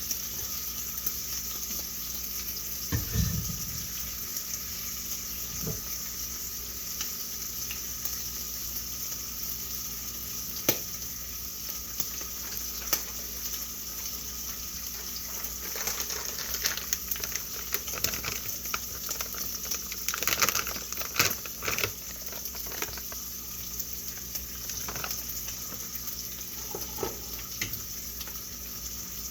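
Food frying in a pan with a steady sizzle, broken by occasional knocks and a spell of clinking utensils and cookware partway through.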